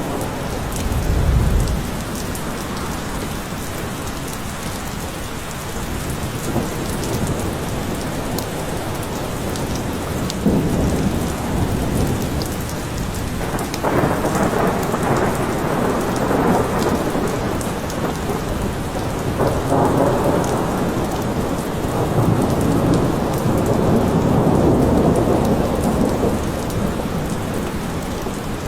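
Steady heavy rain falling in a forest, with several long, low rolls of thunder swelling up and fading over the rain.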